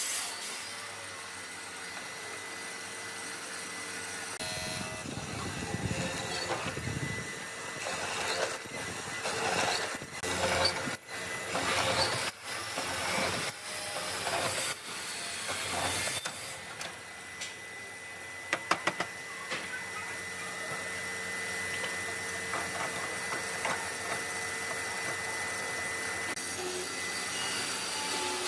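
Workshop woodworking sounds: a run of sharp knocks and clicks from tools on wood, over a faint steady hum.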